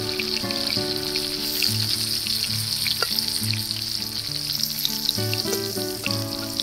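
Pointed gourds (potol) coated in salt and turmeric sizzle steadily as they shallow-fry in hot mustard oil in an aluminium kadai, with a spatula turning them.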